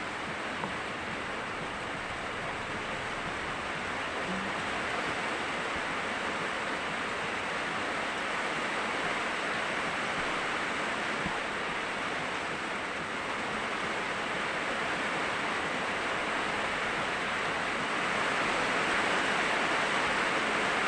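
Heavy rain falling: a dense, even hiss that grows a little louder near the end.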